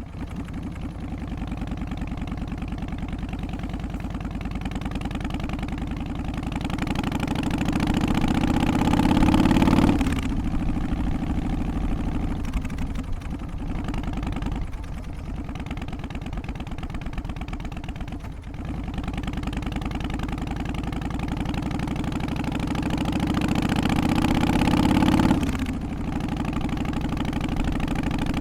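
Harley-Davidson Twin Cam 88 V-twin engine of an FXST Softail running, its revs climbing for several seconds and then dropping sharply, about ten seconds in and again near the end.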